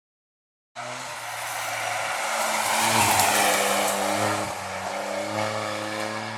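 Lancia Ypsilon HF Racing rally car's 145-horsepower engine and exhaust driving hard. The sound cuts in abruptly under a second in, its note climbing to a peak about three seconds in, then easing off.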